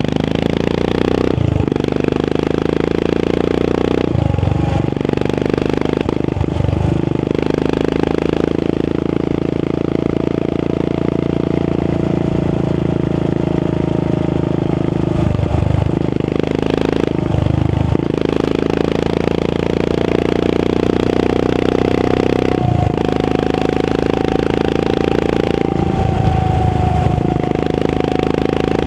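Royal Enfield Continental GT 535's 535cc single-cylinder engine running through an aftermarket AEW exhaust while the bike is ridden on the road. The engine note breaks briefly every few seconds, about seven times.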